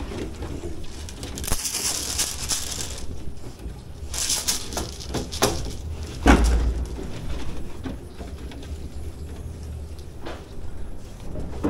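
Barn ambience: scattered animal calls and rustling noises over a low steady hum, with a loud knock about six seconds in.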